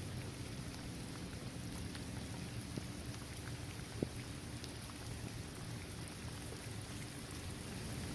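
Steady rain falling on a hard court, trees and grass, an even hiss with scattered individual drop ticks and one sharper, louder drip about four seconds in.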